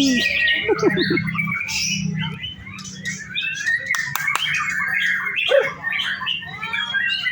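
White-rumped shama (murai batu) singing a fast, varied run of whistles, chirps and harsh squawking notes, with other caged songbirds calling over it. Two sharp clicks come about four seconds in.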